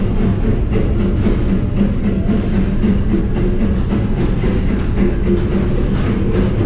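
Steady rumble of the railroad carriage running along the track, with music playing over it.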